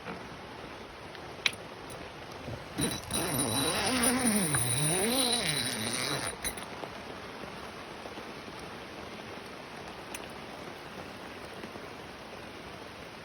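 Steady rain falling, with a single sharp click about a second and a half in. From about three seconds in, a louder pitched sound that dips and rises in pitch lasts about three and a half seconds over the rain.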